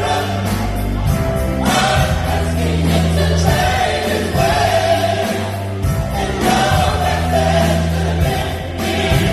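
Gospel choir singing with instrumental accompaniment, over a bass line that holds each low note for a second or two.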